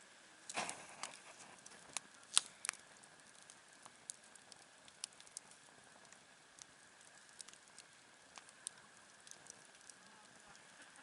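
Wood campfire crackling, with scattered sharp pops and ticks. A cluster of louder crackles comes near the start and the loudest pop about two and a half seconds in, then only sparse small ticks.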